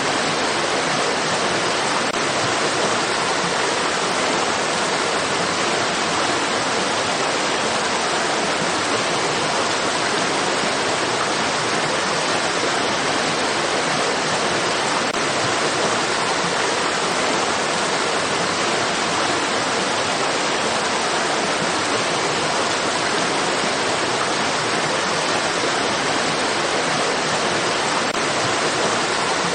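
Running water in a stream or small waterfall, a steady even rush of noise that does not change.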